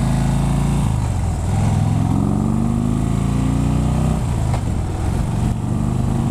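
Harley-Davidson touring motorcycle's V-twin engine running through Screaming Eagle exhaust pipes under way: the note rises in pitch as the bike accelerates from about a second and a half in, drops sharply just after four seconds as a gear is changed, then runs steady.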